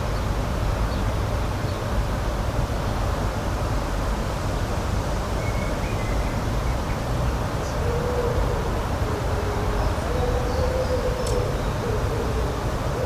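Outdoor spring nature ambience: a steady, low rushing noise with a few faint, short high chirps. From about eight seconds in, a faint wavering drone joins it.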